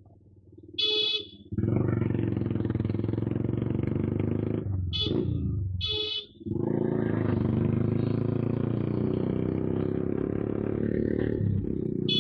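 Suzuki Gixxer's single-cylinder engine running through an aftermarket SC exhaust: a steady, loud exhaust note that drops out for a moment about five seconds in, then resumes. Short high horn beeps come about a second in and again around five and six seconds in.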